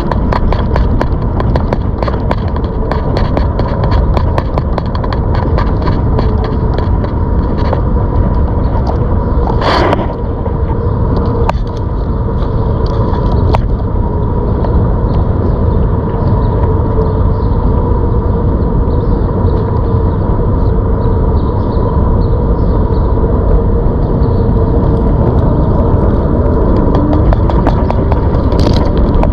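A ZOOZ electric bike being ridden: a steady rushing noise with a steady whine from its electric motor, rising in pitch briefly in the last few seconds as it speeds up. There is a rapid run of small clicks and rattles in the first several seconds and a couple of sharp ticks around ten seconds in.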